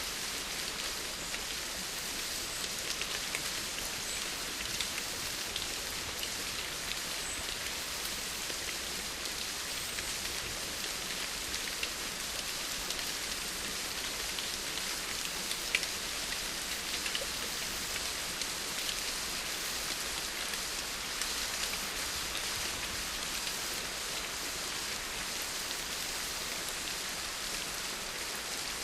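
Steady rain falling, a dense even hiss with many small scattered drop ticks and one sharper drop about halfway through.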